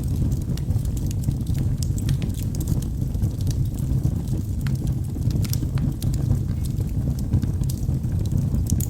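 Wood fire burning in a fireplace: a steady low rumble of flames with frequent irregular crackles and pops from the burning firewood.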